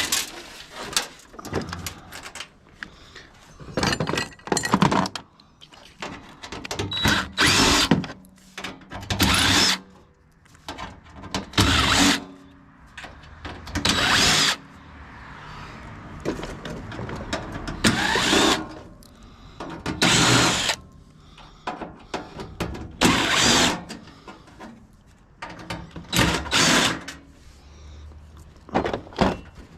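Cordless drill backing screws out of a sheet-metal shell. It runs in repeated short bursts of about a second each, a few seconds apart, with handling noise in between.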